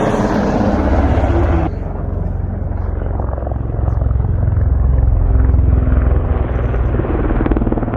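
Military helicopter flying a display, its rotor beating rapidly. The sound changes abruptly about two seconds in.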